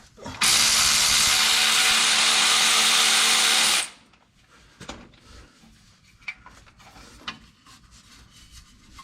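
Cordless electric ratchet running steadily for about three and a half seconds, backing out a bolt, then stopping abruptly; a few light clicks of handling follow.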